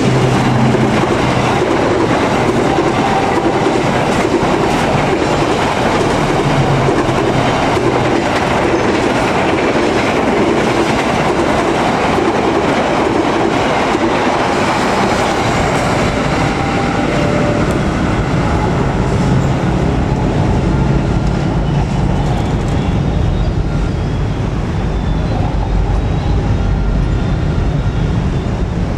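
A long train passing close at speed, its wheels rattling over the rail joints in a loud, steady rush of noise.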